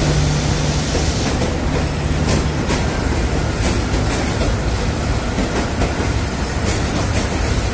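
Passenger train coaches rolling past: a steady rumble with repeated clicks of wheels crossing rail joints. A low hum underneath drops away about two and a half seconds in.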